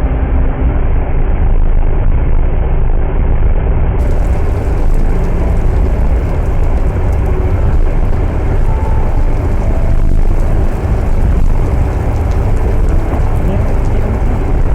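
Loud, steady low rumbling noise with no distinct events. Faint music tones fade out in the first second.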